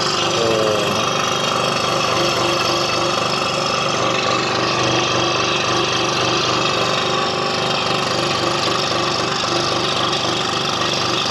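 Scroll saw running steadily as its blade cuts curves through a thin wooden puzzle board.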